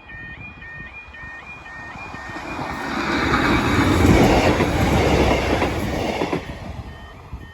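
A train runs over the level crossing with a rush of wheel and rail noise that builds over about two seconds, peaks midway and drops away about six seconds in. The crossing's warbling warning alarm keeps repeating beneath it, heard clearly before the train arrives and again near the end.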